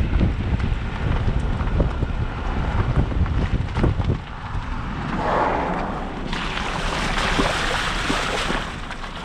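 2013 Suzuki Jimny driving over a rough off-road track: wind buffets the microphone over a low rumble with scattered knocks from the bumps. Past the middle a rushing hiss rises for about two seconds, then dies down.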